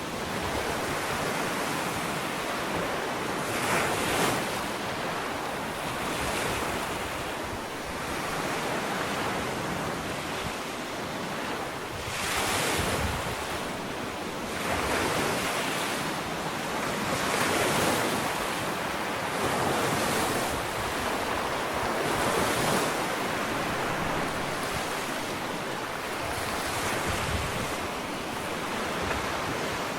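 Ocean waves washing onto a sandy beach, in a steady wash with a brighter surge every two to three seconds.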